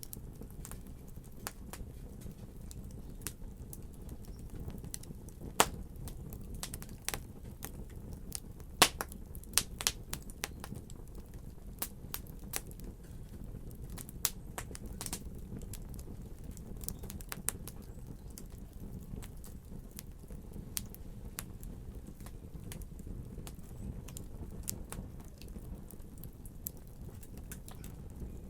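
Wood fire crackling: a steady low rumble of flames with irregular sharp pops and snaps, a few of them louder.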